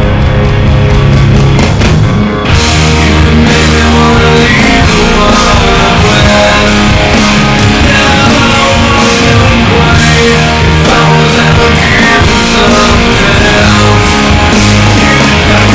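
Rock music: an instrumental section of electric guitar, bass and drum kit, with the full band coming in about two and a half seconds in.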